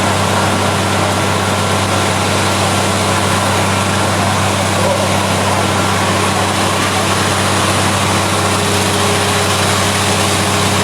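An engine running steadily at a constant speed: an even low drone with a hum that does not change.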